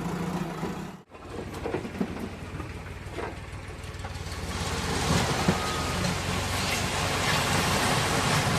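A tractor's diesel engine running steadily, with a loud rushing hiss building over it from about halfway in. The sound drops out briefly about a second in.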